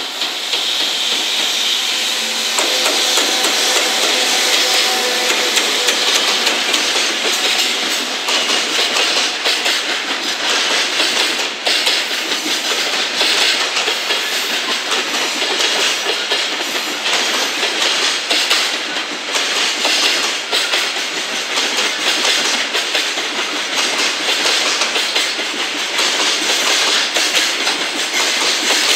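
JR Freight EF210 electric locomotive passing, then a long train of container wagons rolling slowly through station turnouts, the wheels clacking over the rail joints and points in an uneven rhythm. A faint steady whine sounds in the first few seconds as the locomotive goes by.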